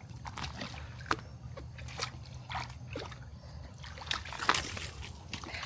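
Footsteps splashing and sloshing through shallow water and mud on a flooded trail, in irregular steps about every half second to a second, one louder splash about three quarters of the way through.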